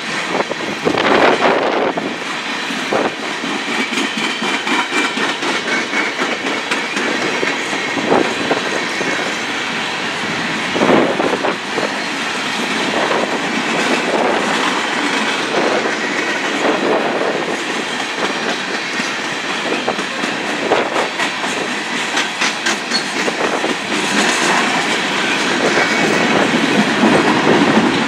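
Coal cars of a freight train rolling past: a steady rolling noise of steel wheels on rail, with irregular clicks and a few louder knocks as the wheels cross rail joints.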